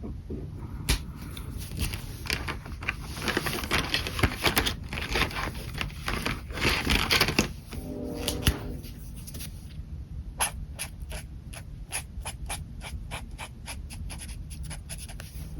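Pen nib scratching on paper: a stretch of dense, continuous strokes, then from about ten seconds in a quick run of short separate strokes, roughly four a second.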